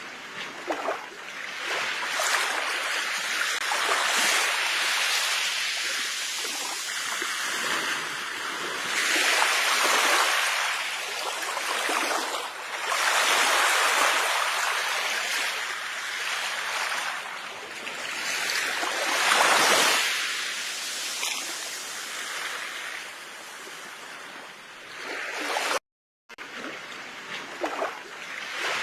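Ocean waves breaking on a shore, the wash swelling and ebbing about every five or six seconds. The sound cuts out for a moment near the end.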